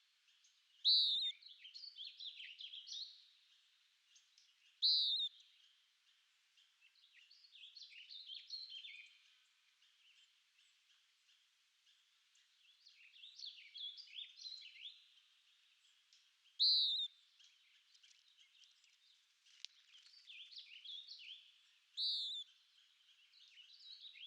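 A songbird singing in repeated phrases, several of them opening with a loud, sharp high note and running on into a quick jumble of twittering notes, with short pauses between phrases.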